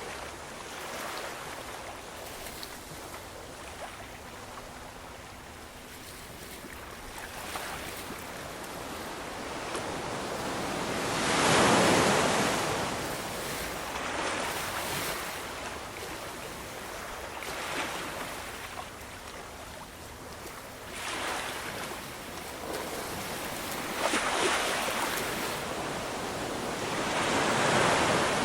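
Ocean waves washing onto a shore in a steady hiss that swells and fades as each wave breaks, the biggest surge about twelve seconds in and another strong one near the end.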